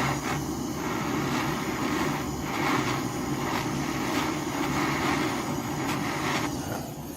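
Steady rushing roar of a gas torch flame heating a brass boiler, cutting off about six and a half seconds in.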